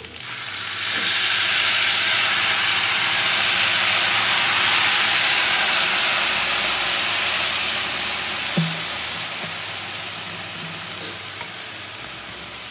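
Blended tomatillo salsa poured into a hot frying pan of potatoes and dried beef, sizzling hard as it hits the oil. The sizzle swells in the first second or two, holds, then slowly dies down as the pan cools under the sauce.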